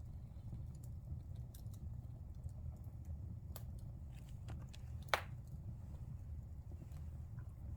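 Wood fire burning in a fireplace: a steady low rumble with scattered crackles, and one loud pop of the burning wood about five seconds in.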